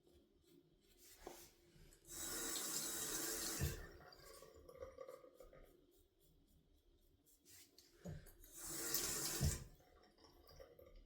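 Water from a tap running into a sink in two short bursts, each about a second and a half long. It is the safety razor being rinsed between shaving strokes.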